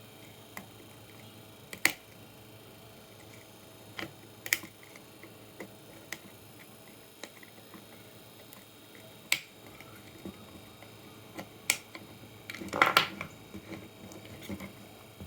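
Hard parts and tools being handled on a workbench during a computer power supply teardown: scattered sharp clicks and light taps, with a short cluster of rattling knocks near the end.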